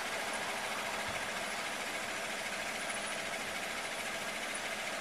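A vehicle engine idling steadily, heard as an even hiss with a faint low hum and no change throughout.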